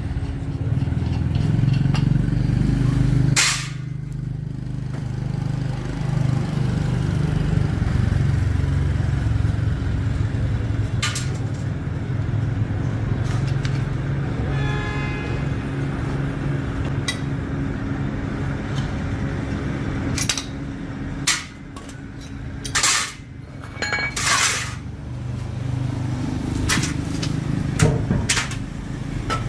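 A steady low mechanical hum runs throughout, with scattered sharp clinks and knocks of metal. A few louder knocks come about three seconds in and again in the last third.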